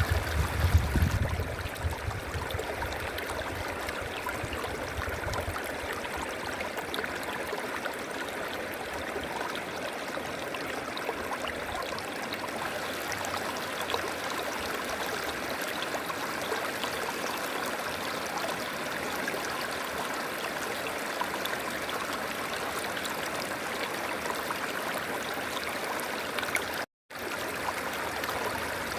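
A river flowing steadily, an even rushing of water, with some low rumble in the first few seconds. The sound cuts out completely for a moment near the end.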